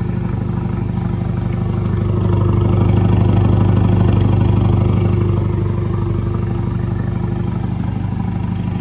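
2019 Ford Ranger's turbocharged 2.3 L four-cylinder engine idling warm through an SPD stainless catted downpipe and Borla cat-back exhaust: a steady, throaty exhaust note that swells slightly in the middle.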